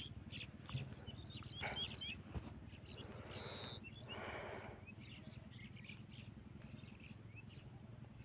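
Faint birds chirping in short, scattered calls, with one brief thin whistle a little after three seconds in, over a steady low outdoor background noise.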